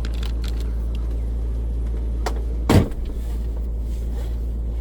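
Land Rover Discovery 2's V8 idling steadily, heard from inside the cab, with a few light clicks and one short, heavy thump about two and a half seconds in.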